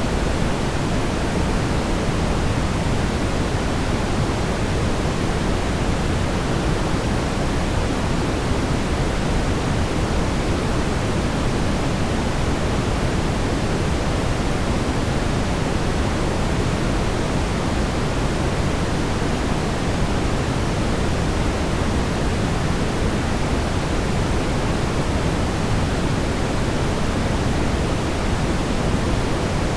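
Steady brown noise: an even, deep rumbling hiss, strongest in the low end, with no change or events.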